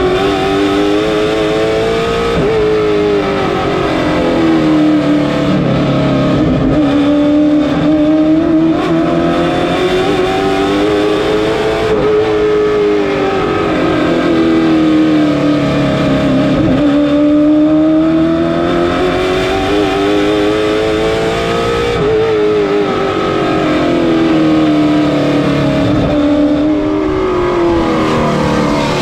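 Race car engine running at speed on an oval, its pitch climbing and dropping back in a smooth cycle about every five seconds as it accelerates and lifts through the turns.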